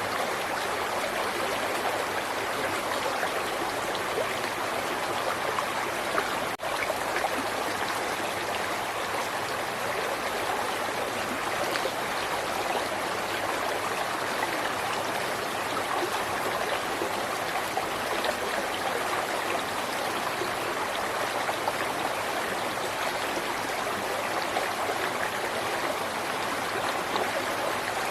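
River water flowing in a steady, continuous rush, with a momentary dropout about six and a half seconds in.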